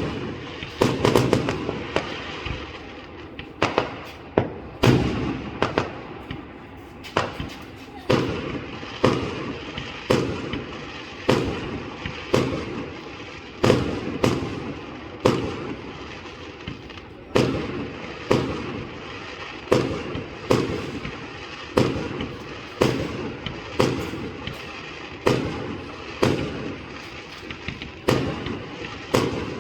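Fireworks display: aerial shells bursting in a steady run of sharp bangs, roughly one a second, each followed by a rumbling echo.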